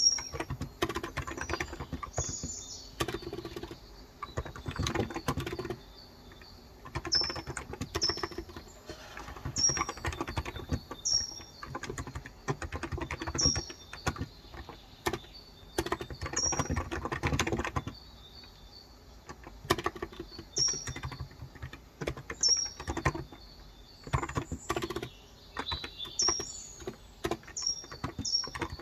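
Typing in bursts on a Cox Endeavor electro-capacitive tenkeyless keyboard with 35 g switches: rapid soft key clicks with brief pauses between runs. A bird's short, high chirp repeats every second or two.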